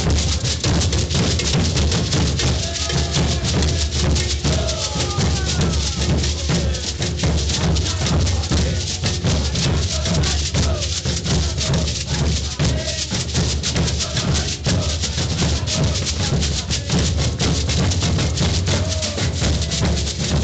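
A maracatu percussion group playing a steady, dense rhythm: deep bass drums under a continuous shaking of rattles and quick drum strokes.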